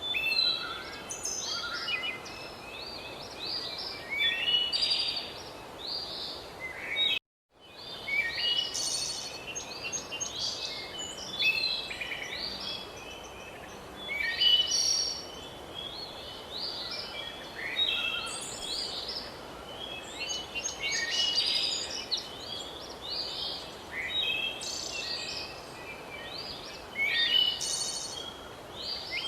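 Songbirds chirping and trilling, many short overlapping calls over a steady outdoor hiss, with a brief cut to silence about seven seconds in.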